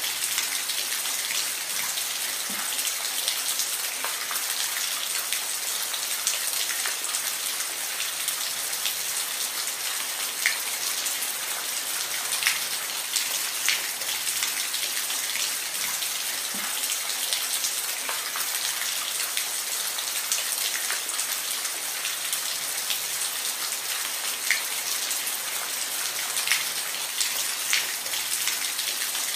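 Steady rain falling on a surface: an even hiss with individual drops ticking here and there.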